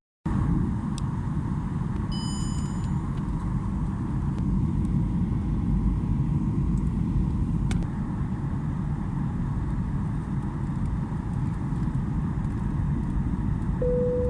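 Boeing 737-800 cabin noise in flight: the steady low rumble of the engines and airflow. A brief high chime sounds about two seconds in, and a lower cabin chime tone begins near the end.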